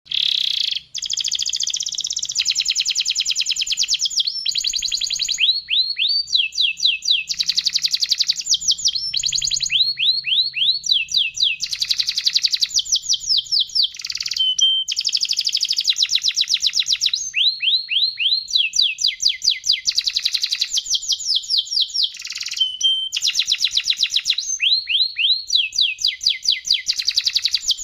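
Domestic canary singing a long, continuous song: fast trills of rapidly repeated notes alternating with phrases of downward-sweeping notes, one phrase after another with only brief breaks.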